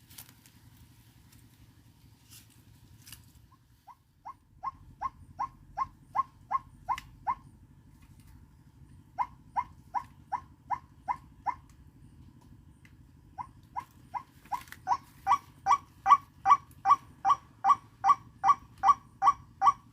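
White-breasted waterhen (ruak-ruak) calling: a fast run of short, repeated notes, about three a second, in three bouts. The last bout is the loudest and is still going at the end.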